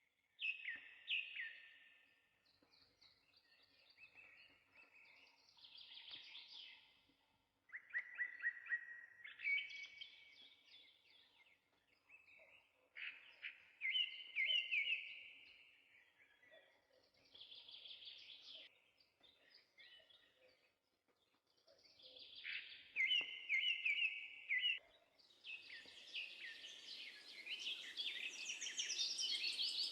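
Sparrows singing: short trilled phrases of quickly repeated notes, one after another with pauses between. Near the end the song grows denser and overlapping, over a steady hiss.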